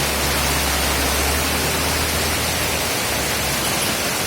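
Heavy rain and rushing floodwater: a steady, loud hiss. A low rumble underneath fades out about three seconds in.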